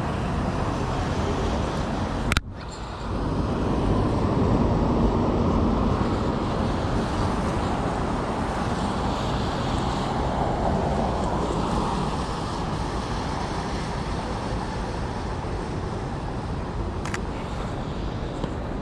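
City street traffic noise: a steady rush of passing cars. A sharp click sounds a couple of seconds in, and a fainter one near the end.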